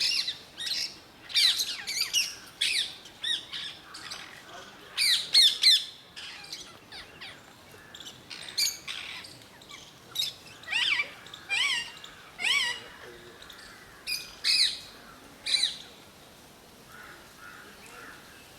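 Lovebirds squawking: short, shrill calls that come thick and fast for the first six seconds, then more sparsely, dying away near the end.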